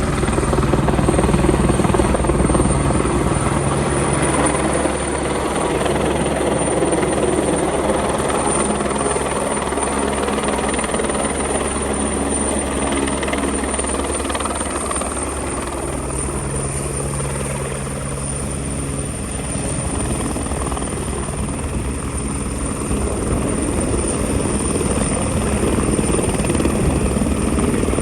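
Twin Squirrel helicopter's twin turbine engines running steadily with the rotor turning. A high turbine whine holds steady over the rotor and engine noise.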